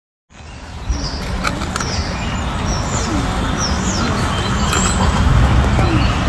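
Loud steady rushing noise with birds chirping over it, starting abruptly shortly after the beginning.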